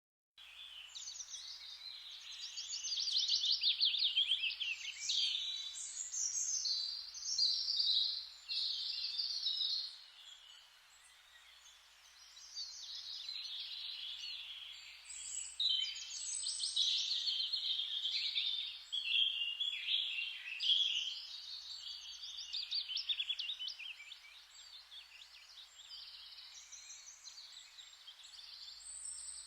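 Forest birds singing over a steady background hiss: several birds overlap in quick high trills and chirps, easing briefly about a third of the way in before picking up again.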